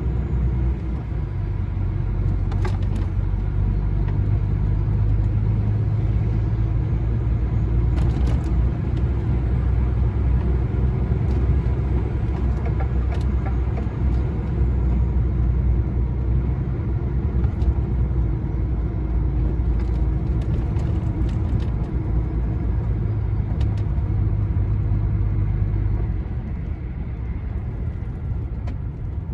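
Heavy goods vehicle driving, heard from inside the cab: a steady low drone of engine and road rumble with a few faint clicks. The drone eases off a little near the end.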